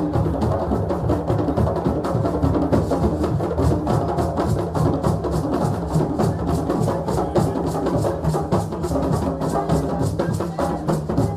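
West African celebration drumming: several drums playing a fast, steady rhythm.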